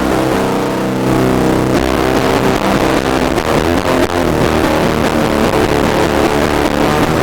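Electric guitar tuned low to B standard, played through a homemade distortion pedal built from a circuit-bent Whisper 2000 hearing aid, with a heavy, sustaining distorted tone. A held chord rings for about the first two seconds, then the playing turns busier, with shifting notes.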